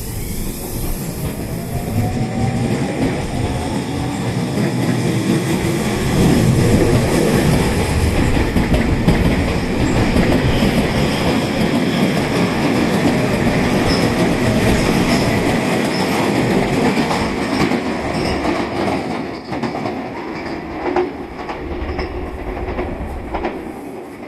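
Tobu 30000 series electric train pulling out. The traction motors give a rising whine as it gathers speed, under a loud rumble of wheels and running gear. Later the wheels clack sharply over the rail joints as the cars go past, fading near the end.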